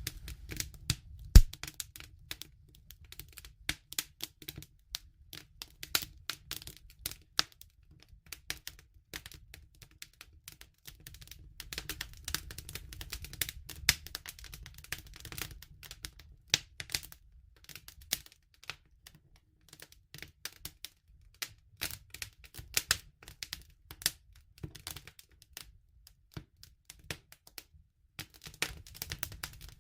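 Wood campfire crackling: constant irregular snaps and pops over a low steady rumble of the flames, with one sharp, much louder pop about a second and a half in.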